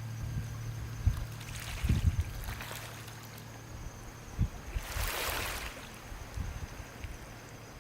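Small sea waves lapping gently on the shore, with water trickling between washes; a soft wash swells about five seconds in. A few light low bumps of wind on the microphone.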